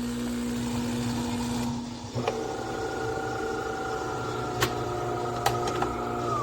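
De'Longhi Magnifica Start automatic espresso machine running with a steady low hum; about two seconds in a higher motor whine joins, with a few sharp clicks, and it winds down with falling pitch near the end.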